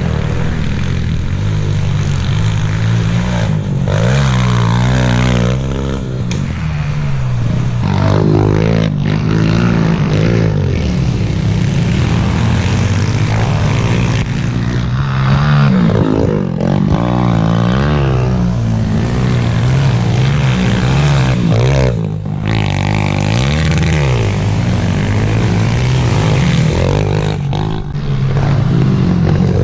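Small four-stroke pit bike engines running on a dirt track, revving up and dropping back again and again through gear changes, with more than one bike heard at once.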